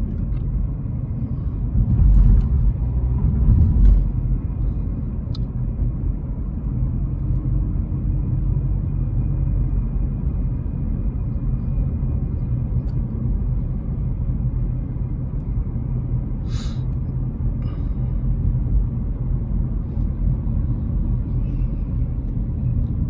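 Steady low rumble of a car driving, road and engine noise heard from inside the cabin, with two louder swells about two and four seconds in.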